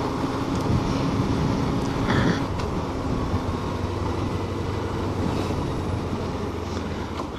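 Suzuki GW250 motorcycle's 250 cc parallel-twin engine running with a steady hum.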